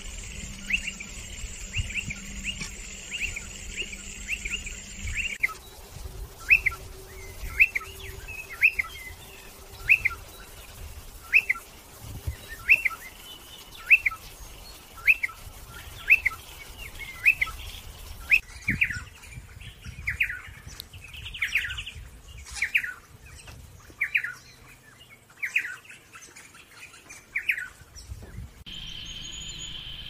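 Striated pardalote calling: a short, sharp note repeated over and over, close together for the first few seconds and then about one a second. Near the end the calls give way to a steady high insect trill.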